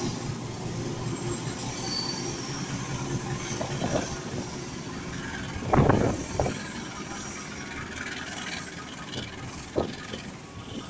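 Parcel train rolling away over the rails, its noise fading as it leaves, with a loud knock about six seconds in and a smaller click near the end.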